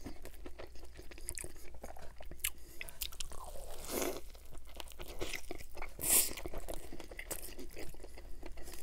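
Close-miked chewing and biting of a saucy stacked cheeseburger with shredded lettuce: wet mouth sounds and small crunches, with a fresh bite into the burger about four seconds in.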